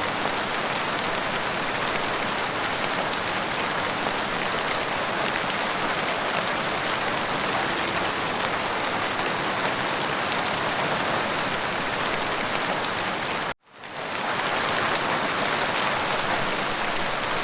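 Steady rain, an even dense hiss with no pauses. About 13.5 seconds in it cuts out abruptly and fades back in within half a second, like a rain track being looped.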